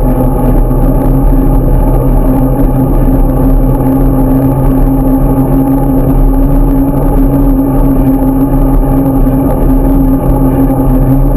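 A vehicle engine running at a steady, unchanging pitch, held at constant speed throughout.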